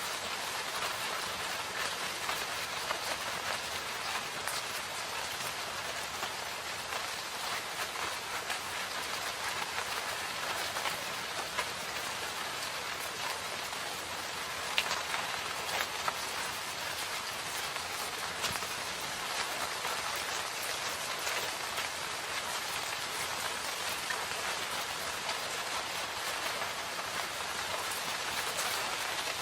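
Steady rain falling in a forest, a dense patter of drops on leaves and ground with a few sharper, louder drop ticks, one of them about halfway through.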